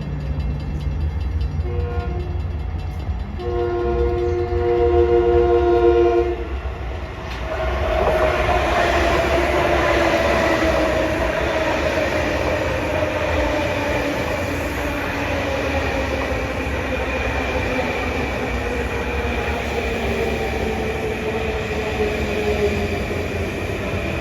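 LIRR M9 electric multiple-unit train sounding its horn, a short blast and then a longer one of about three seconds. It then runs into the station with a loud rumble of wheels on rail and a motor whine that slowly falls in pitch as it slows.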